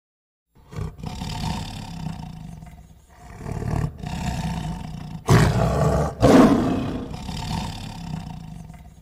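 An elephant's deep rumbling roars, starting about half a second in, with two louder calls about five and six seconds in.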